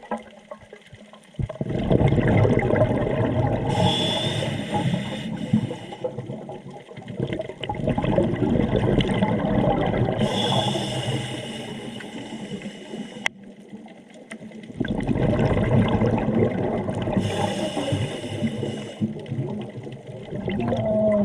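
Scuba diver's regulator breathing underwater: about three slow breaths, each a hissing inhale through the regulator and a long rush of exhaled bubbles.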